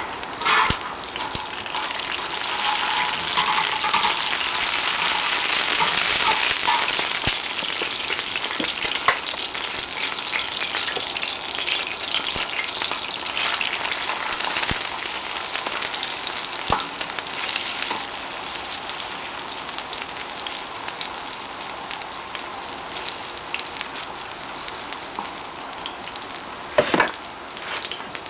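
Shredded old-pumpkin pancake batter sizzling in hot oil on a cast-iron pot-lid griddle, a steady hiss that swells a few seconds in and then slowly eases. A few short taps and scrapes of a spatula against the lid.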